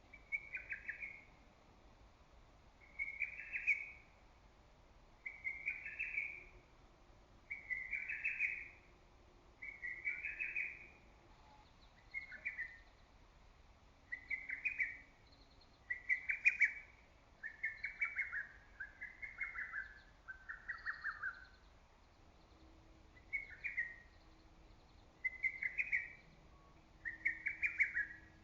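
Lesser cuckoo singing its loud, choppy phrase over and over, about once every two seconds, some fourteen times. A few phrases in the middle run slightly lower in pitch.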